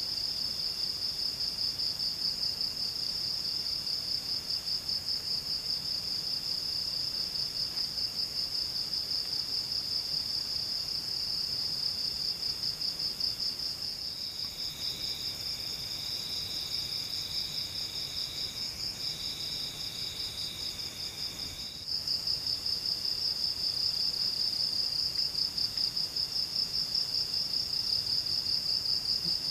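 Forest insects trilling steadily in a dense, high, fast-pulsing chorus. From about the middle, a second, slightly lower trill joins in for two stretches of a few seconds each, then drops out.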